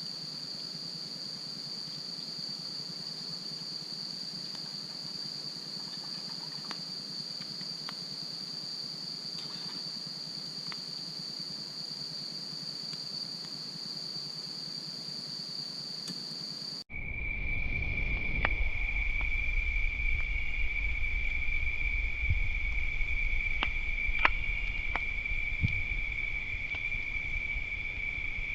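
Insects singing in a steady, unbroken high trill beside a campfire, with a few faint pops from the fire. About two-thirds of the way in, the sound cuts abruptly to a lower-pitched steady insect trill over a low rumble.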